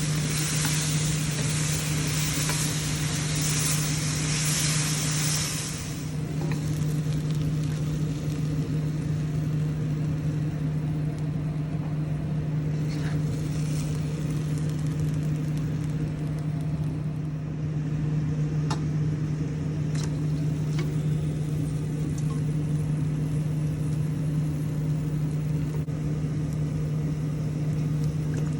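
Stir-fry sizzling in a pan over a steady low hum. The sizzle is loud for the first six seconds or so, then much fainter, with a few faint clicks later.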